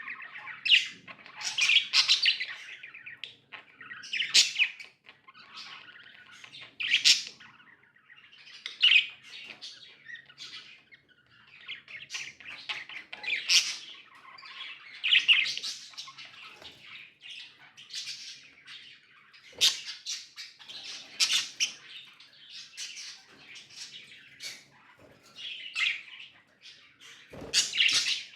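A group of pet budgerigars chirping and chattering without a break, with louder calls standing out every second or two.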